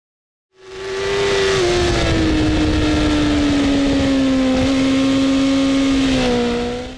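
Motorcycle engine running hard at high revs on a race track, its pitch falling slowly. It fades in about half a second in and cuts off just before the end.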